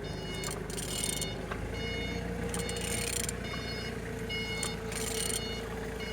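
A Renault M9R 2.0 dCi diesel engine being turned over by hand with a ratchet, a short rasping burst about every two seconds; the engine turns freely. A vehicle's reversing alarm beeps repeatedly over a steady low hum.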